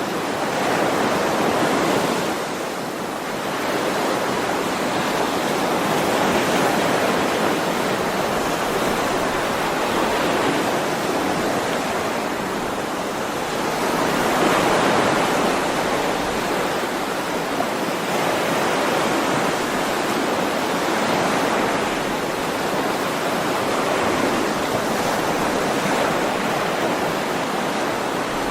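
Ocean waves breaking and washing on a shore, a continuous surf rush that swells and eases every few seconds.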